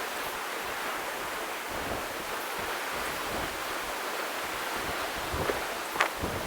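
Steady, even rushing outdoor noise of wind and lakeside water, with a sharp click about six seconds in.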